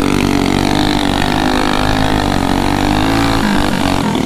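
A motor vehicle engine running loud at steady high revs, its pitch holding nearly level with a slight dip near the end.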